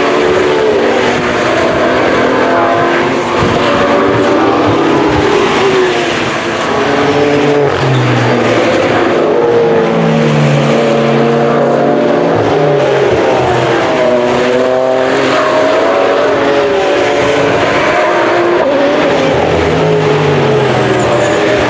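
Several GT3 race car engines running hard at once, overlapping as the cars pass, their pitches rising and falling.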